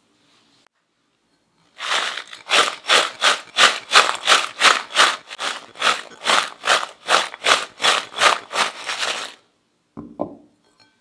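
Crispy fried potato cubes shaken with seasoning powder: a rhythmic rattle of about three shakes a second for around seven seconds, then a single short knock.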